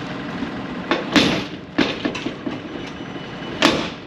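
A series of sharp clanks and rattles, about six, the loudest about a second in and near the end, over a steady low hum.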